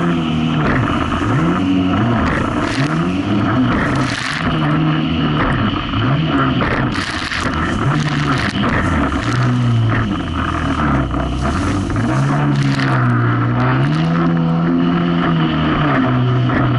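Jet ski engine running under way, its pitch rising and falling every second or two as the throttle is worked through rough waves, with wind noise and repeated splashes of spray and water over it.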